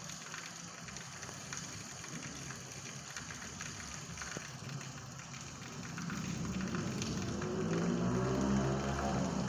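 Steady rain falling, an even hiss with fine drop ticks. In the last few seconds a low humming sound with a steady pitch grows louder over the rain.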